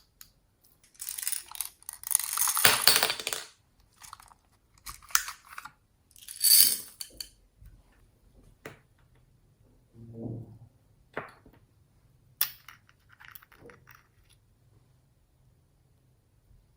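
Slime being handled and mixed by hand: irregular crackling, crunchy bursts, the longest and loudest about two to three seconds in, then a few sharp clicks and pops.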